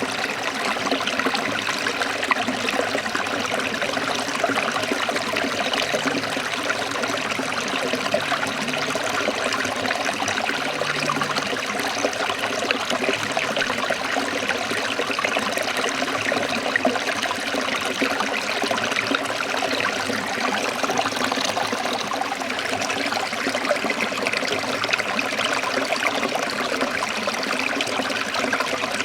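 Forest stream running and splashing over rocks in a steady, dense rush of water.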